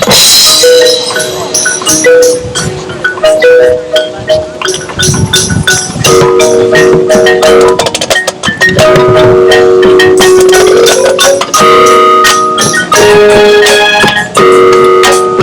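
Marching band music with mallet percussion and drums prominent: many quick struck notes, with long held notes joining about six seconds in.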